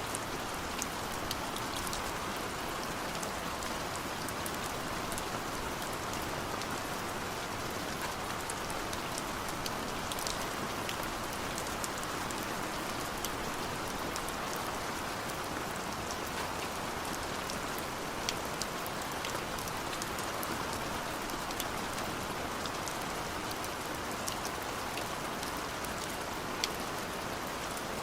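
Steady heavy rain falling, a constant hiss with scattered sharp drop ticks throughout.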